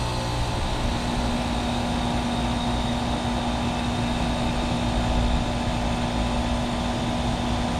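1998 Carrier 38CKC 5-ton central air conditioner condensing unit running: a steady compressor hum under the condenser fan's whoosh of air. The steady hum tone settles just after the start. The compressor is believed to be a Danfoss scroll, and the fan is driven by a GE motor.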